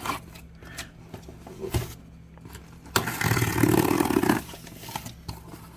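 Accessory packaging being handled: a few faint clicks, then about three seconds in a loud scraping, rustling noise lasting about a second and a half.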